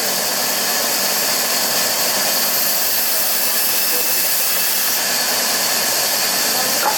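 Steady, even mechanical hiss of a running machine, heaviest in the high treble.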